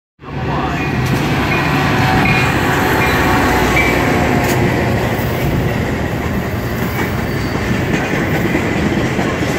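Metra commuter train, locomotive then bilevel gallery cars, running close past with the loud, steady noise of wheels on the rails. Thin high squeals come and go in the first few seconds as it slows for the station stop.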